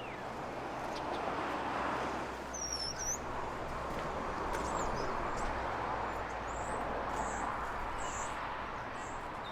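Steady wind rushing across open ground, with a few faint, short, high bird chirps about three seconds in.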